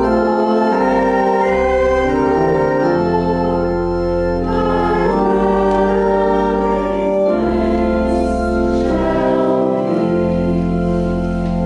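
Organ playing a slow hymn in sustained chords over a deep held bass, with congregational voices singing along.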